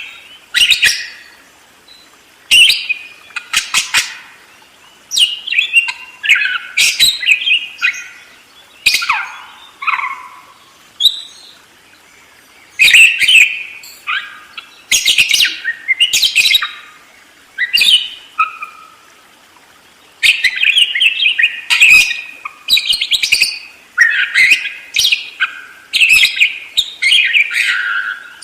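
Budgerigar chattering and warbling: quick chirps and short sweeping notes in repeated bursts with brief pauses between them.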